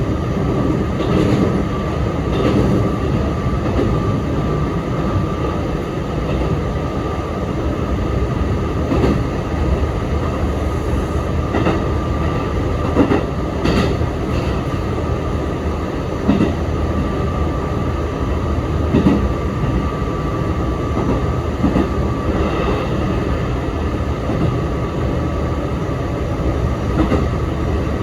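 Sanyo Electric Railway 3050 series electric train running, heard from inside the car: a steady rumble with a faint steady tone and irregular clacks from the wheels over rail joints.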